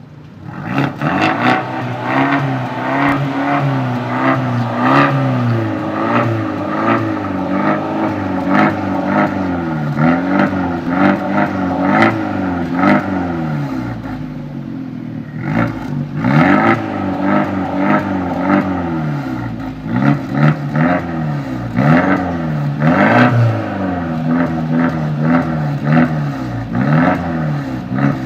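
2016 Abarth 124 Spider's turbocharged 1.4-litre four-cylinder engine blipped over and over: the pitch rises and falls every second or two. Sharp crackles and pops come from the exhaust between the blips.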